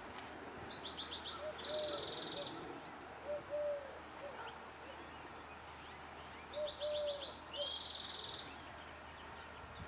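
A small songbird singing the same short song twice, a run of quick high notes followed by a buzzy trill, with a few short, low whistled notes mixed in.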